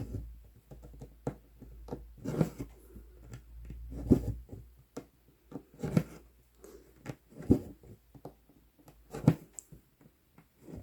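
Hand cross-stitching: a needle going through 11-count Aida cloth and embroidery floss being drawn through it. A soft scratchy pull comes about every one and a half to two seconds, with small clicks and scratches between.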